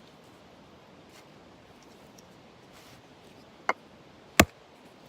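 Two sharp knocks about two-thirds of a second apart, the second much the louder, over a faint steady hiss.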